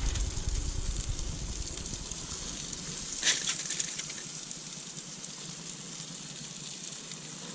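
Sliced peppers sizzling steadily as they fry in butter in a pan, with a short clatter about three seconds in.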